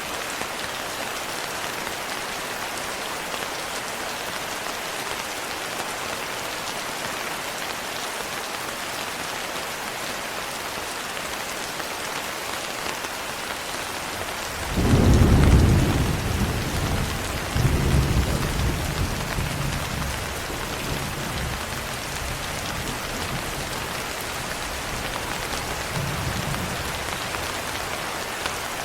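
Steady rain falling, with a roll of thunder about halfway through: a sudden low rumble, a second swell a couple of seconds later, then a slow fade back under the rain.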